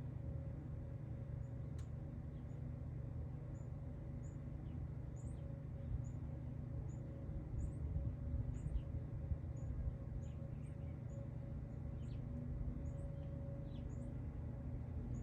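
Small birds chirping: short high chirps about once a second, over a steady low hum.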